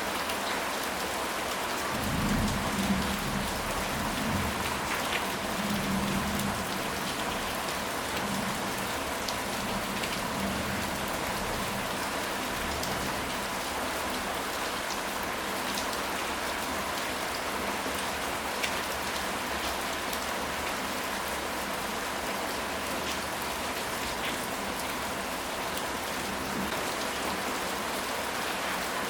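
Steady rain falling on a surface, with scattered drop ticks. A low rumble of thunder swells in about two seconds in and fades over the next few seconds.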